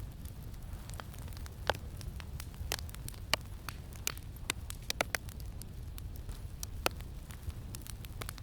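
Wood campfire crackling, with irregular sharp pops and snaps over a steady low rumble of wind.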